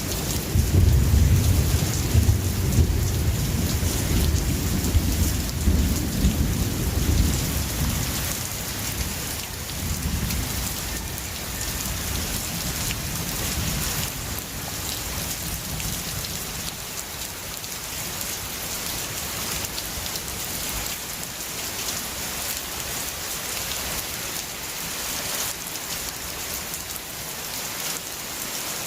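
Steady heavy rain with a long rolling rumble of thunder in the first eight seconds or so, a weaker rumble after it, then the rain alone.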